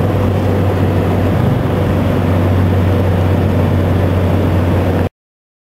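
Turbocharged four-cylinder engine of a 1991 Honda Accord coupe running steadily with a deep, even drone. It cuts off abruptly about five seconds in.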